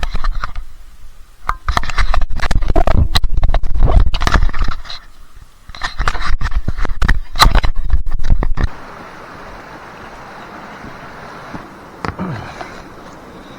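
Loud, close scraping and crackling in bursts, like hands working material right at the microphone, stopping suddenly about nine seconds in. After that, a steady low hiss of wind or running water.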